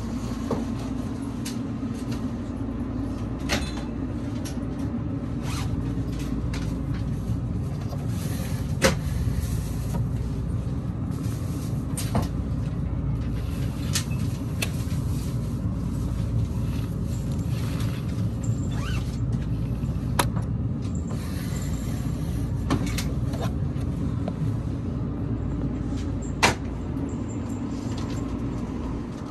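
'36+3' train running: a steady low rumble of wheels on rail, with scattered sharp clicks and knocks at irregular intervals. The two loudest knocks come about nine seconds in and near the end.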